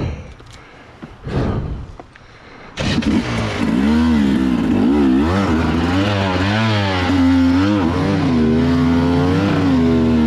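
A dirt bike engine cuts in suddenly under throttle about three seconds in, after a few short bursts of noise, and keeps running loud with its revs rising and falling unevenly.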